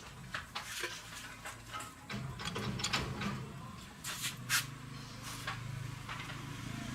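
Irregular sharp clicks and light knocks of metal parts being handled, with a steady low hum from about two seconds in.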